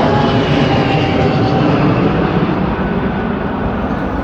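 Low-flying airplane passing overhead on its landing approach: a loud, steady rumble with a faint falling whine, easing off slightly near the end.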